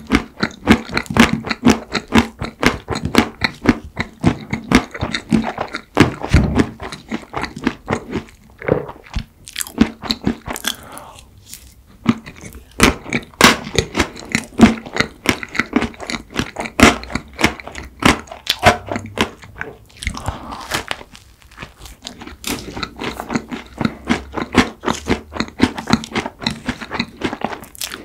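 Close-miked eating: rapid crisp crunching and wet chewing of mint chocolate ice cream cake and a cookie-crumb-topped wafer, with a couple of brief pauses.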